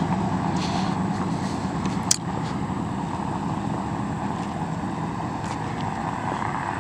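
Steady road traffic noise from cars on the street by the crossing, with one sharp click about two seconds in.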